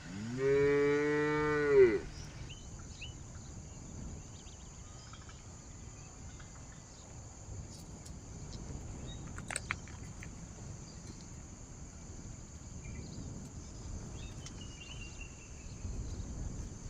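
A cow moos once near the start: one call about a second and a half long that rises at the start, holds, then drops off. After it there is only low background with a steady high hiss.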